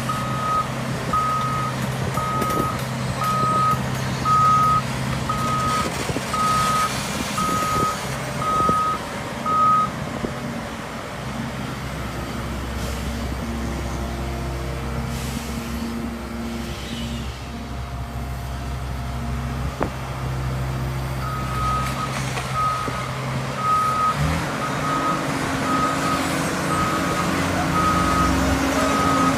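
Heavy-equipment backup alarm beeping steadily, about one and a half beeps a second, over a running diesel engine. The beeping stops about a third of the way in while the engine note changes, and starts again later on.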